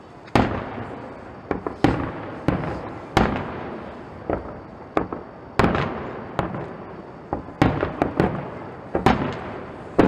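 Fireworks display: about a dozen aerial shells bursting one after another at irregular intervals, each sharp bang trailing off in a rolling echo.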